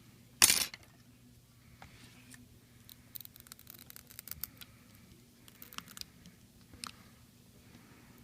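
Small metal tools clicking and scraping on a smartphone's parts during disassembly, with one louder short knock about half a second in and scattered clusters of light clicks after it, over a faint steady hum.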